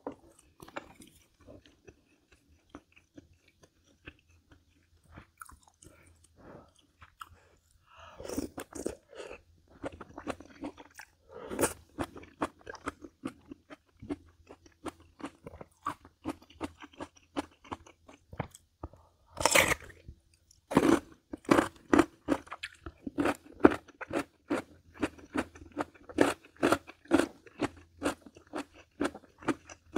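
A person biting and chewing crisp food with loud crunches. They are sparse and faint at first, then come as a steady run of about two chews a second in the last third, with the loudest bite about two-thirds of the way in.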